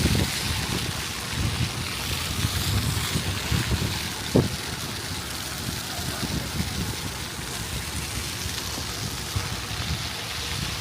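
Outdoor ambience with wind rumbling unevenly on the microphone, and one brief sharp knock about four seconds in.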